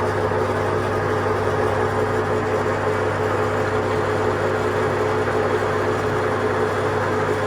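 A workshop machine's motor running steadily, a constant hum with a low drone and a couple of fixed higher tones.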